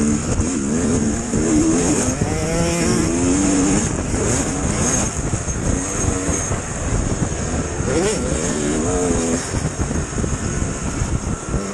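Dirt bike engine running under way, its revs rising and falling again and again, over a steady rushing noise.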